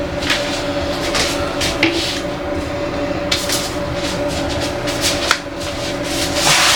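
Household items being handled: irregular clicks, knocks and rustling, over a steady low hum.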